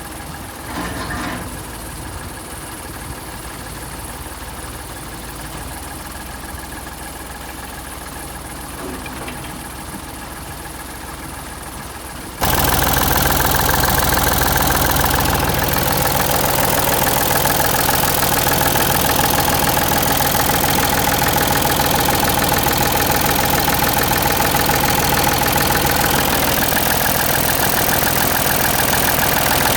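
Ford 555 backhoe loader's diesel engine idling steadily. About twelve seconds in the sound suddenly becomes much louder and fuller, then keeps running steadily.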